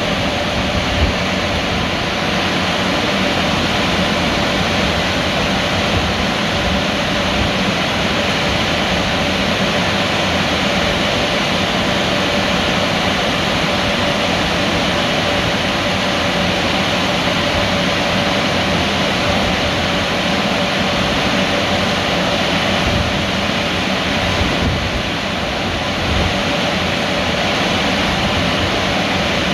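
Ceccato tunnel car wash running: a steady rush of spraying water and machinery noise with a constant mid-pitched hum underneath.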